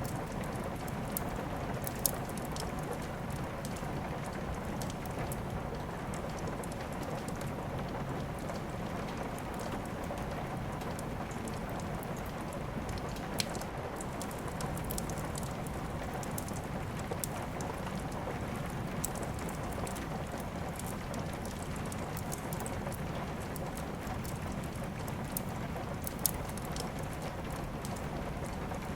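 Steady rain falling, with a few sharp pops from a crackling fireplace standing out over it, about four in all.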